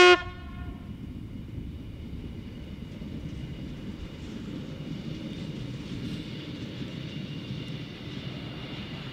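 Class 628 diesel railcar sounding one short horn toot, then running on with a steady rumble of engine and wheels on the rails.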